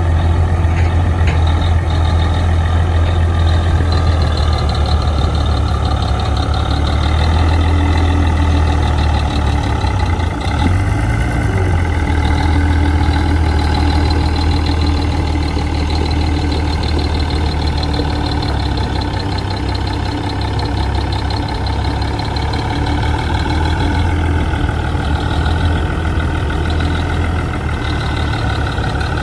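Heavy diesel engine of earthmoving machinery running steadily at working speed, with a deep, continuous engine drone.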